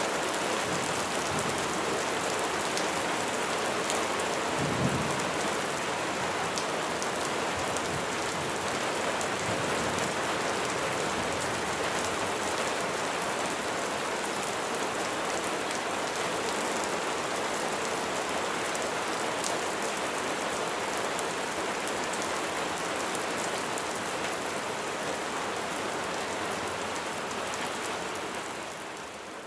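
Steady heavy rain falling on a surface, an even hiss with sharp drops ticking through it, and a brief low thump about five seconds in. The rain eases slightly near the end.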